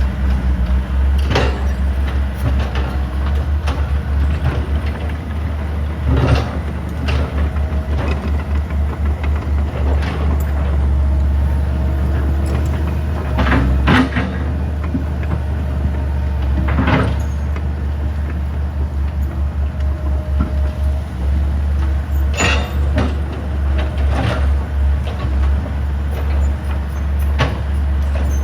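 Heavy diesel earthmoving equipment running with a deep, pulsing engine rumble, with sharp clanks and knocks every few seconds.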